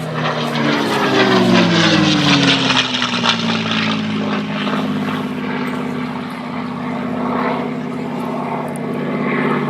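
Piston-engined propeller warbird flying low past at speed, its engine note loud as it goes by and dropping in pitch as it passes, then settling into a steadier drone as it moves away.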